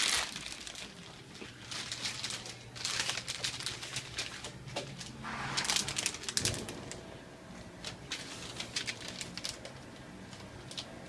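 Irregular rustling and light clicks of hands handling food and packaging at a work surface, over a faint steady hum.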